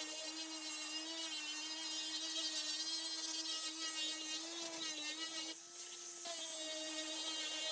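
Electric power tool motor running steadily with a high whine. About five and a half seconds in it briefly goes quieter and rises slightly in pitch, then settles back.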